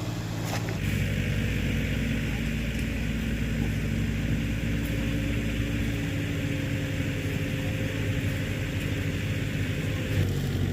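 A small engine running steadily, getting louder a little under a second in and holding an even note.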